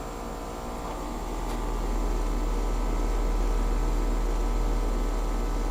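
Outdoor unit of a Bryant Evolution two-stage heat pump running in heating mode: a steady compressor hum and fan noise, growing louder about two seconds in. Its coil is icing over and the unit has not gone into defrost.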